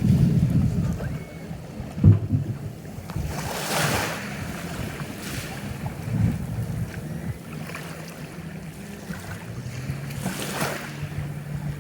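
Sea surf washing in, with wind rumbling on the microphone; louder rushes of surf come about four seconds in and near the end.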